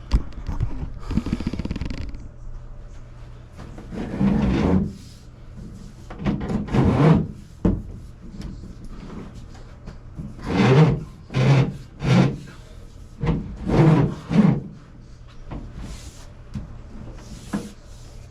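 Flexible metal conduit scraping and rubbing as it is worked through a drilled hole in wood framing, in a series of separate bursts.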